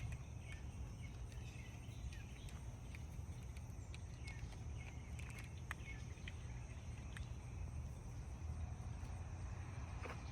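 Faint outdoor background noise: a steady low rumble with a thin, steady high tone above it and scattered faint small ticks.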